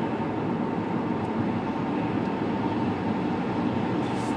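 Steady road and tyre noise with engine hum, heard from inside a car cabin while driving at highway speed.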